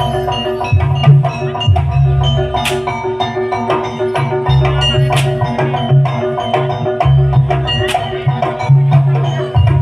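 Jaranan Buto accompaniment music: drums and tuned gong-and-metallophone percussion playing a steady, repeating rhythm, with held ringing notes over a low pulsing beat.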